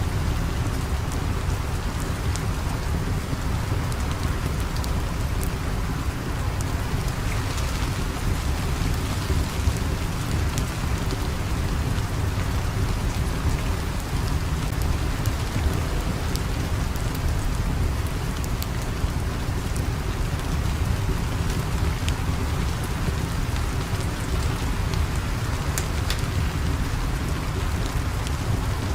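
Steady rain falling, with a constant low rumble underneath and sparse faint ticks scattered through it.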